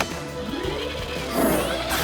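Cartoon background music with action sound effects: a sharp hit at the start and sweeping whooshes near the end, as a mechanical claw works to lift boulders.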